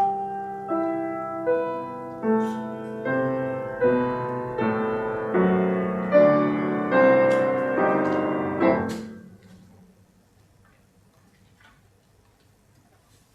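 Solo piano playing a slow run of chords, one struck about every 0.8 seconds, each left to ring. It stops about nine seconds in, leaving only faint room tone with a few small ticks.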